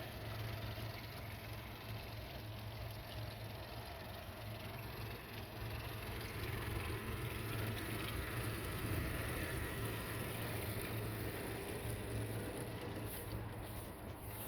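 Outboard motor idling with a steady low hum.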